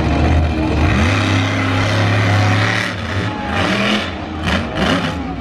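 Monster truck engine revving: it climbs about a second in, holds high for a couple of seconds, then drops off about three seconds in.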